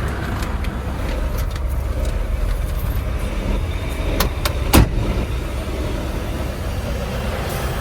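Semi-truck diesel engine running at low speed with a steady low rumble while the tractor backs its trailer. Two sharp clicks come a little past halfway, the second louder.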